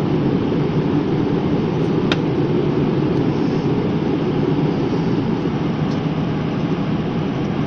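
Steady drone of an aeroplane in flight heard from inside the cabin: engine and airflow noise, even and unbroken, with one faint tick about two seconds in.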